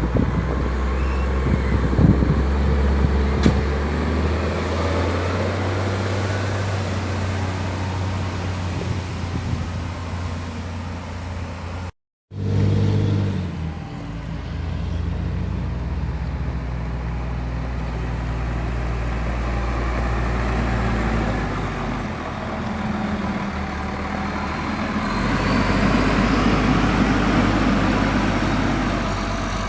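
Wheel loader's diesel engine running under varying load, its engine speed stepping up and down. It drops out briefly about twelve seconds in, then carries on.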